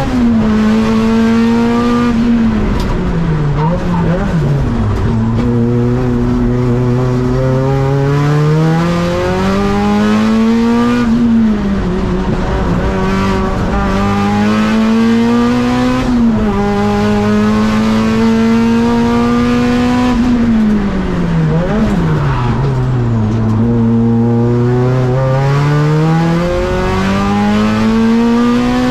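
Nissan Silvia S15 race car's engine driven hard on track, its pitch climbing steadily as it pulls through the gears. Twice it falls sharply under braking with quick downshift blips, a few seconds in and again about two-thirds of the way through, then climbs again.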